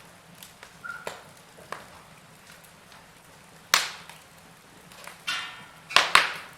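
Wood fire crackling in a fireplace: scattered small pops, a sharp loud crack a little under four seconds in, a short burst of crackling just after five seconds, and two loud pops close together near the end.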